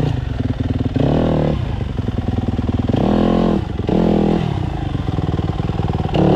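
Dirt bike engine revving hard in repeated throttle bursts, the pitch rising and falling about three or four times, as the bike is rammed up a steep hill climb under heavy load.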